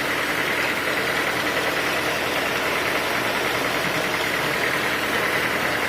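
Sawmill machinery running steadily, a constant mechanical drone with a faint high whine.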